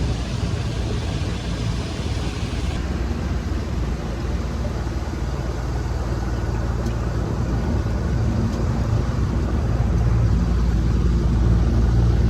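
Boat motor running steadily under way, a low rumble with the rush of wind and water; the hiss drops off about three seconds in.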